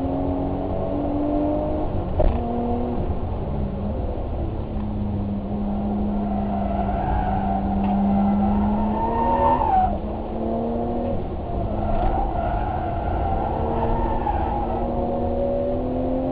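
Car engine running under load, its pitch climbing, dropping back and holding as the revs change through the run. There is a sharp knock about two seconds in and a short sliding squeal a little past the middle.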